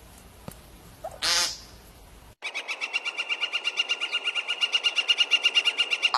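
Wild animal calls: a single short, harsh call about a second in, then, after an abrupt cut, a fast, even series of high notes, about a dozen a second, growing louder.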